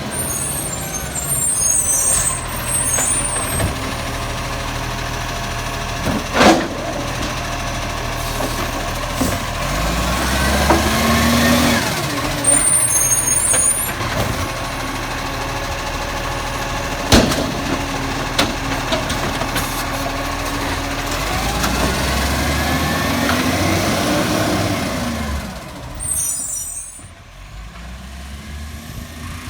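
Garbage truck at work with its diesel engine running steadily. Its air brakes hiss three times, there are two sharp bangs, and slow rising-and-falling whines come twice.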